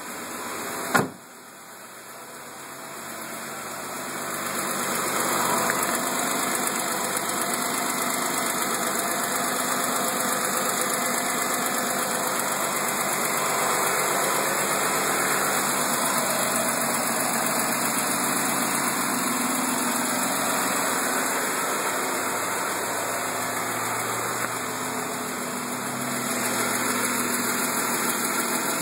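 A sharp thump about a second in, then a 2012 Jeep Wrangler Unlimited's 3.6-litre Pentastar V6 idling steadily with an engine tick, louder from about four seconds in. The dealer put the tick down to the timing chain and lifters; it was eventually cured by replacing both cylinder heads.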